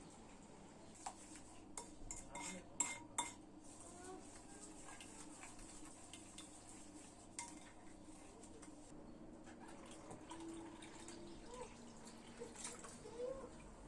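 Kitchenware being handled: a quick run of sharp clinks and knocks of pots and utensils about one to three seconds in, then a few scattered clinks and quieter handling.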